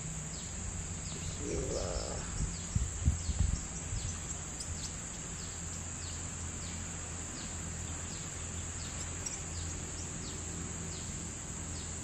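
A bird repeatedly giving short falling chirps over a steady high insect drone, with a few dull thumps about three seconds in.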